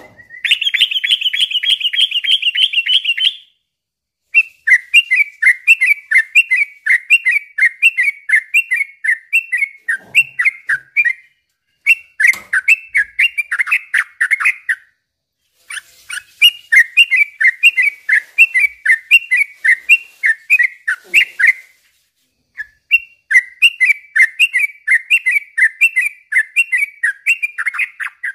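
Yellow-vented bulbul (trucukan) singing long, rapid runs of chattering notes in phrases of several seconds with short pauses between them. It opens with a fast, even trill.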